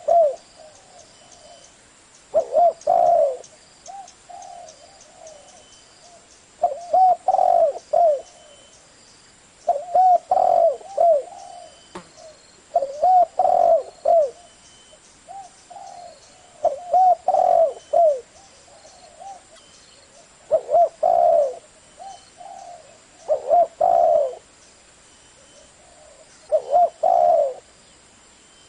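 Spotted dove cooing: the same short phrase of a few coos repeated about every three to four seconds, nine times over.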